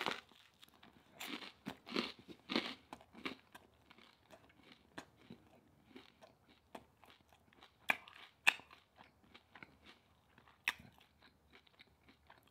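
Close-miked chewing of a mouthful of food, with soft crunches and mouth clicks at an uneven pace. The bites are denser in the first few seconds, and a few sharper crunches come around the middle.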